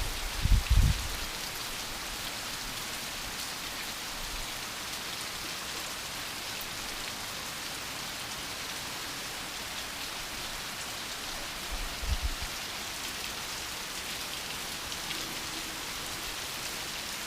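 Steady light rain falling, calm, with no wind or thunder. A few low bumps sound in the first second and again briefly about twelve seconds in.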